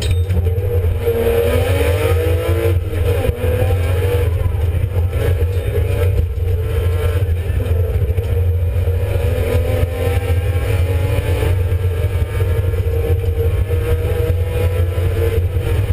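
BMW E36 Compact rally car's engine under hard acceleration, heard from inside the cabin. Its note climbs in pitch over the first few seconds, then runs at high revs with smaller rises, over a steady low drone.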